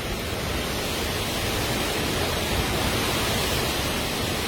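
Storm with damaging winds and heavy rain making a steady, even rush of noise.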